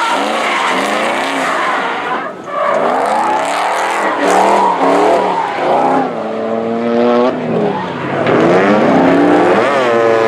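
Drift car engine revving hard, its pitch climbing and dropping again and again as the throttle is worked, with a short lift about two seconds in. The tyres hiss and squeal as they slide.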